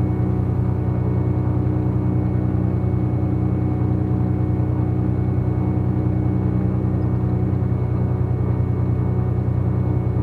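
Cessna T210's turbocharged six-cylinder piston engine idling steadily with an even hum.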